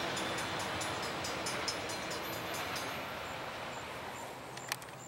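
A freight or passenger train running away down the line, its rumble fading steadily, with a rapid even ticking of about five a second that stops about three seconds in. A sharp click sounds near the end.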